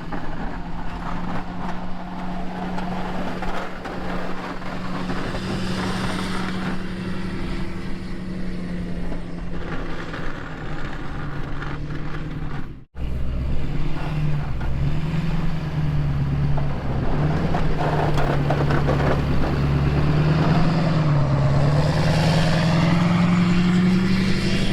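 A truck engine runs steadily, then after a sudden break about halfway through it is louder, its speed rising and falling as it works.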